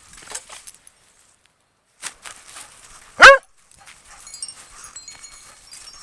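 A corgi barks once, loud and short, about three seconds in, amid faint rustling.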